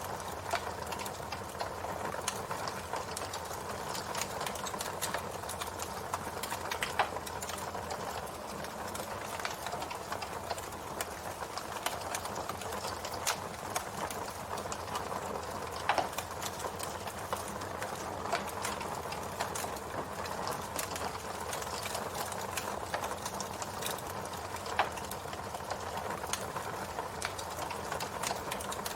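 Campfire burning: a steady hiss with a dense, irregular run of small crackles and a few louder pops.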